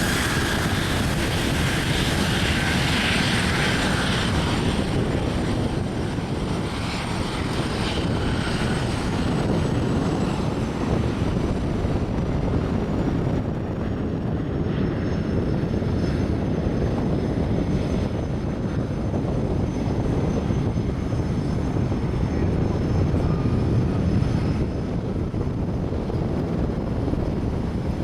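A Gulfstream V business jet's twin Rolls-Royce BR710 turbofans at takeoff power: a loud, steady rumble with a thin high whine that slowly falls in pitch.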